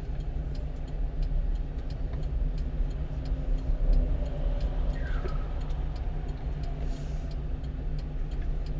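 A 1-ton truck's engine running low and steady, heard inside the cab as the truck creeps along slowly. Faint regular ticks run through it, with a short falling squeak about halfway.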